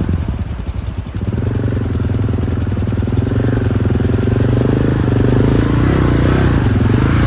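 Motorcycle engine running and revving unevenly, its pitch wavering up and down. It grows louder between one and two seconds in, then holds steady.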